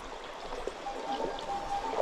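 Small mountain stream running over rocks, a steady rushing. A faint thin steady tone sounds over it from about halfway through.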